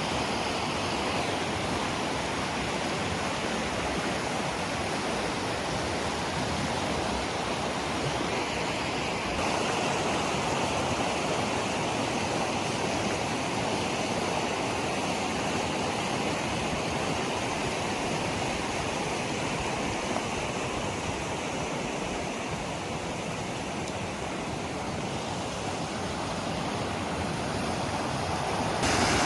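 Waterfall, water falling and rushing with a steady, dense noise; the texture shifts slightly about nine seconds in.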